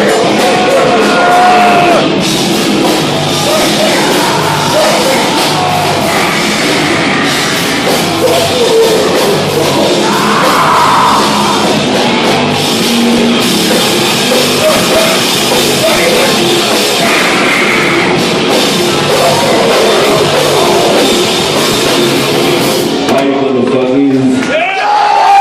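A heavy metal band playing live and loud, with distorted guitars, drums and vocals, and a brief break in the playing near the end.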